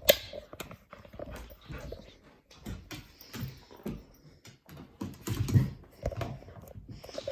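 A dog growling now and then, amid scuffling, clicks and knocks. The loudest stretch comes a little past halfway.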